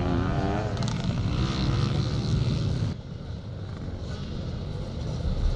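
Classic motocross motorcycle engines running, with one engine's pitch warbling up and down in the first second. About three seconds in, the sound cuts abruptly to a quieter, steady engine drone.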